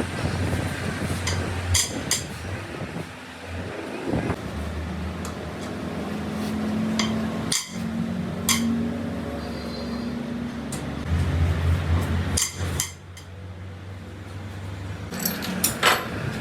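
Workshop noise: sharp metal clinks and knocks from tools being handled, over a steady low machine hum.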